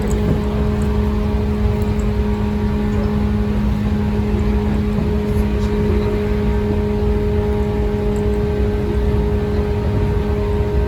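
JR West 115 series electric train running at a steady speed, heard from inside the car: a constant rumble of wheels on rail with a steady hum held at one pitch.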